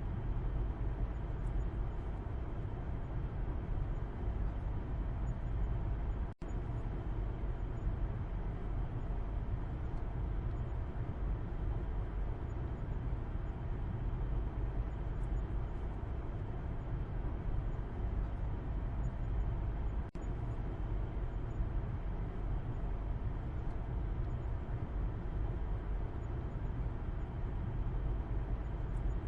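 Steady low road rumble and engine drone of a moving car, heard from the back seat. It cuts out for an instant twice, about 6 and 20 seconds in.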